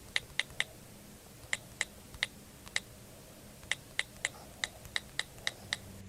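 A series of short, sharp, slightly pitched ticks in irregular groups of two to four, about twenty in all.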